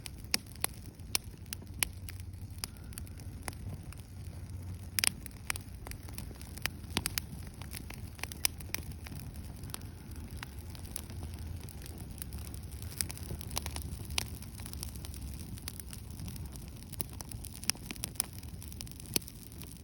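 Wood bonfire crackling, with many sharp, irregular pops and snaps over a steady low rumble.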